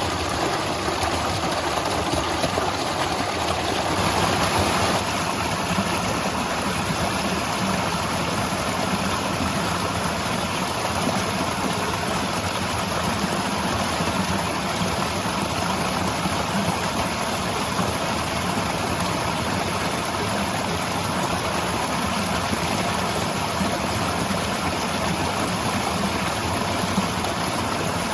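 Waterfall: a steady rush of falling water with no breaks, slightly fuller for a moment about four seconds in.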